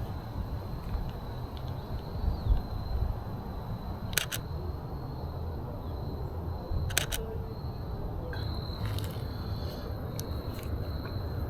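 Canon EOS RP camera shutter firing twice, about three seconds apart, each shot a quick double click.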